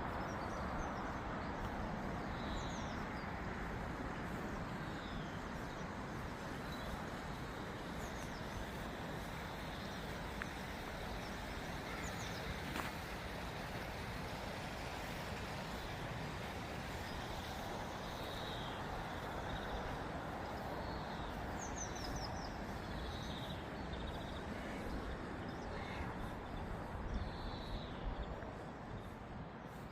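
Steady outdoor background noise with small birds chirping briefly now and then over it.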